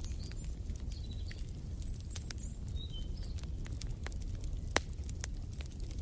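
Wood fire crackling in a fireplace: a low steady rumble with scattered sharp pops, one louder pop near the end. Small birds chirp briefly in the first half.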